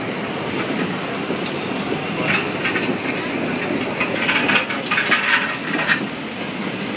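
A train's passenger car rolling along the track, heard from on board: a steady rumble and clatter, with louder rattling bursts about two seconds in and again between four and six seconds.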